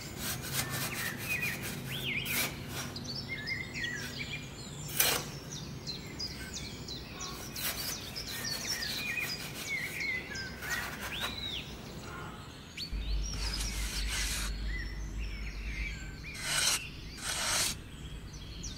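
Small hand trowel scraping and scooping damp sand, in a few separate strokes, with birds chirping throughout in the background.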